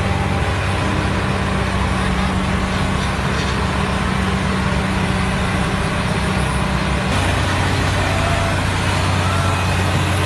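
A heavy vehicle's engine running steadily with a low, even hum. The sound changes abruptly about seven seconds in.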